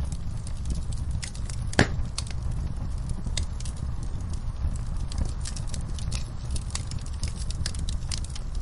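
Wood fire in a fireplace crackling, with a steady low rumble of flames under many irregular sharp pops, one louder pop about two seconds in.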